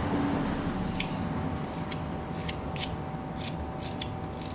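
Whittling knife slicing thin shavings from a small carved wooden bird, a series of short, crisp cuts, about two a second, as the carving is cleaned up.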